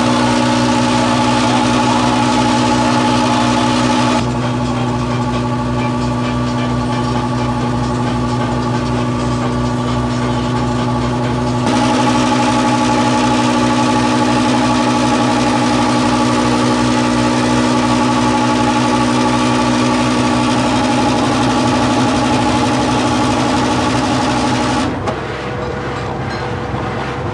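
Massey Ferguson 399's six-cylinder diesel engine running steadily under load while towing a slurry tanker uphill. A steady whine over the engine drops away about four seconds in, returns near twelve seconds, and the sound eases off near the end.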